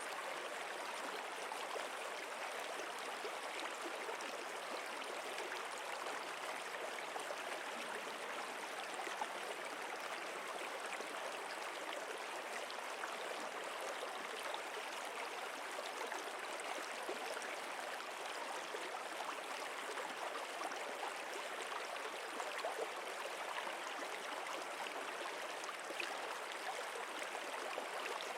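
A stream running steadily, with a constant babble and gurgle of flowing water.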